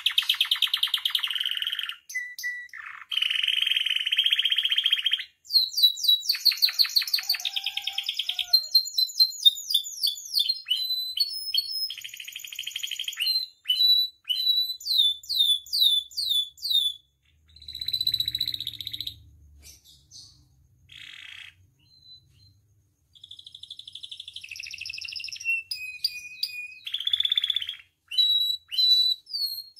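Domestic canary singing a long, varied song: buzzing trills and rapid strings of repeated down-sweeping notes. The song thins into scattered shorter phrases about two-thirds of the way through, then picks up again.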